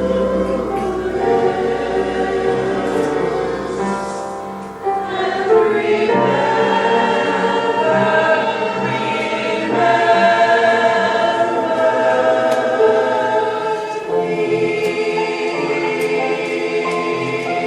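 Choir singing a sacred cantata piece with accompaniment, several sustained voices in harmony.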